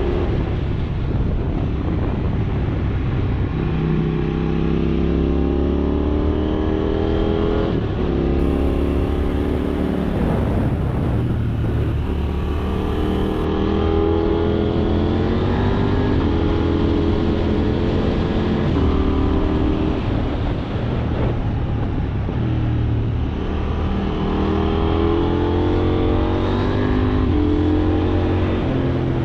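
KTM 790 Duke's parallel-twin engine accelerating hard through the gears: the pitch climbs in each gear and drops back at each upshift, several times over.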